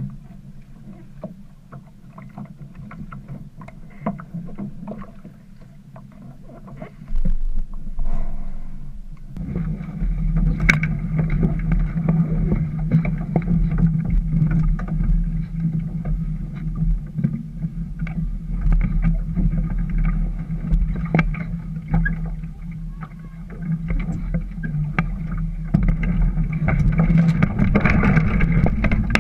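Small sailboat underway on the water, with scattered knocks and clicks at first. About nine seconds in, a steady low hum joins them, over a low rumble.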